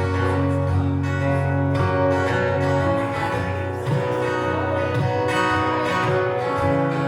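Live music: an instrumental passage led by guitar over low bass notes, with no singing.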